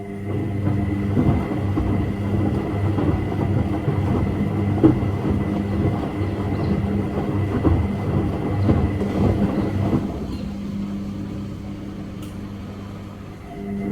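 Washing machine drum motor starting up and turning the drum, a steady hum over a churning, tumbling wash. It eases off about ten seconds in, then picks up again near the end, as the drum pauses and restarts in the wash cycle.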